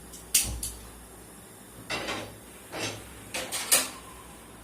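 Cookware and kitchen utensils being handled: a scatter of short, light knocks and clinks, a few at a time, over a quiet background.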